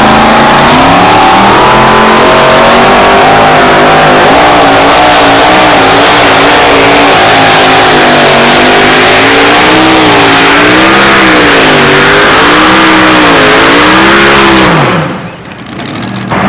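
Two-wheel-drive pulling truck's engine running flat out down the track, its pitch swinging up and down as the driver works the throttle. Near the end the throttle is chopped and the engine winds down quickly, the sign that the pull is over.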